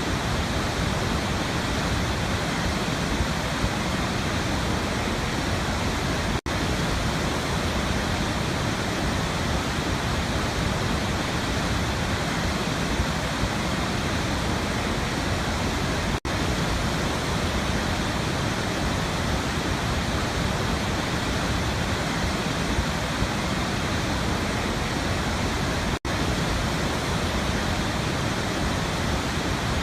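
Waterfall: a steady, dense rush of falling water, broken three times by split-second gaps about ten seconds apart.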